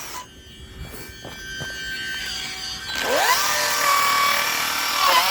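Electric motor of a Losi Promoto-MX RC motorbike whining faintly, then revving up about three seconds in, its pitch rising quickly into a steady high whine.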